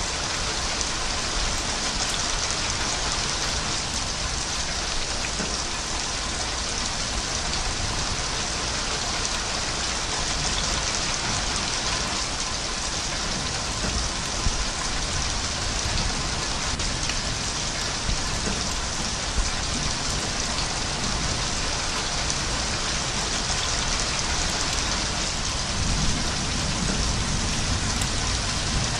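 Steady, heavy rain falling in a dense, even hiss, with a few sharper drop hits standing out now and then.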